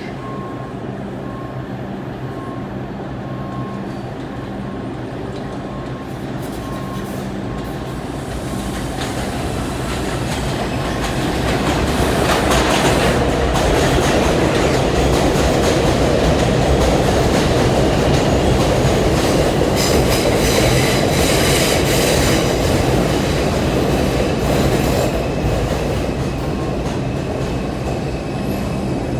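R142 subway train running through the station. It grows louder about a third of the way in, clattering, with a high wheel squeal about two-thirds of the way through, and eases off a little near the end.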